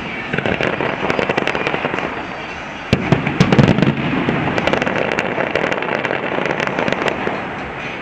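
Aerial firework shells bursting in the sky, with a dense crackle of many small reports. A loud cluster of bangs comes about three seconds in, and the crackle thins toward the end.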